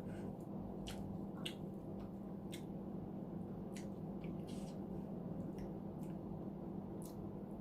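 Close-miked eating sounds: wet chewing and mouth squishes, with scattered soft clicks at irregular intervals over a steady low hum.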